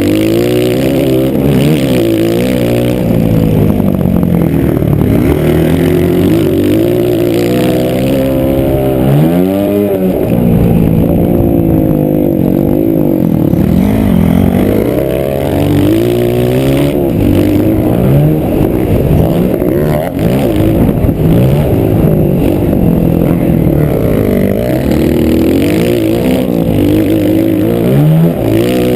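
Motocross bike engine heard close up from an onboard action camera, revving up and down again and again as the rider works the throttle and gears, its pitch climbing and dropping every second or two.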